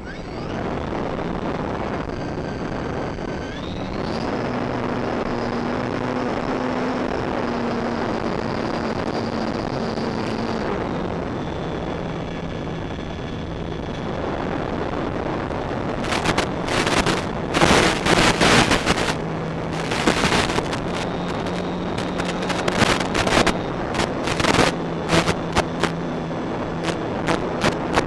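Electric motors and propellers of a Durafly Tundra VTOL model plane running under a steady rush of wind. The motors' whine steps up in pitch about four seconds in and drops back around eleven seconds. From about sixteen seconds on, loud crackling gusts batter the microphone again and again.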